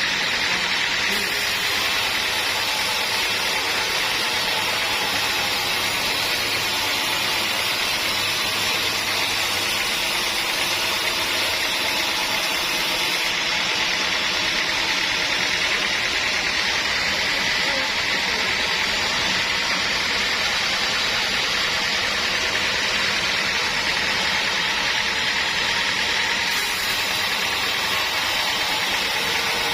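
Sawmill machinery running steadily: a continuous high whine with machine noise, unchanging in loudness.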